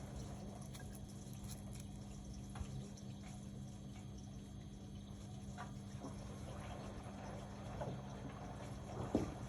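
Indesit Innex BWE 91496X washing machine running a wash: water sloshing in the turning drum over a steady hum, with a few soft knocks or splashes, the loudest just after nine seconds.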